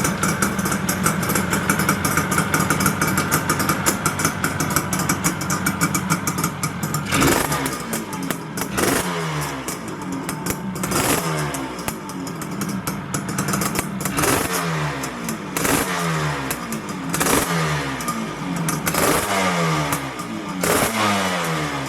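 1979 Suzuki GT250 X7's air-cooled two-stroke parallel twin running through its Micron exhaust. It holds steady raised revs, then from about seven seconds in the throttle is blipped over and over, the revs jumping up and falling back every second or two.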